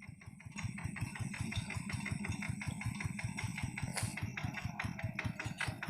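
Single-cylinder diesel engine of a two-wheel paddy hand tractor running under load while ploughing, an even chugging of about eight to nine firing beats a second that grows louder about half a second in.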